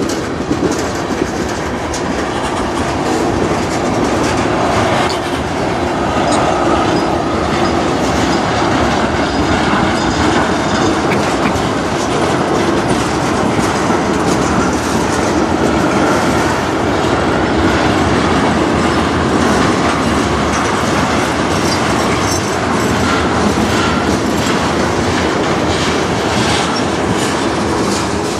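Freight train of tank cars and covered hopper cars rolling past, its steel wheels clacking over the rail joints in a steady rumble.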